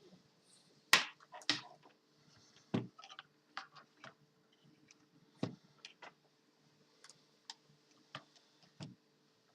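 Irregular sharp clicks and taps, about a dozen, the loudest about a second in, over a faint steady hum.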